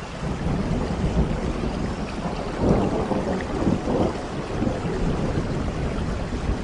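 Steady rain with a low rolling rumble of thunder that swells around the middle.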